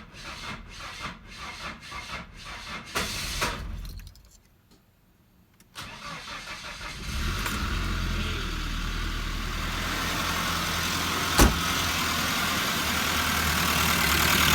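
A 1995 Nissan Hardbody's KA24E 2.4-litre four-cylinder engine cranking rhythmically on the starter, going quiet for a moment, then catching about six seconds in and running steadily and loudly. It has a valve train noise the owner expected, from poor rocker arms and little oil yet reaching the top of the engine. A single sharp click comes near the end.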